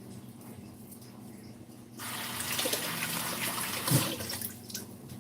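Water running from a tap into a sink. It starts suddenly about two seconds in, fades out a little before the end, and has a single knock partway through.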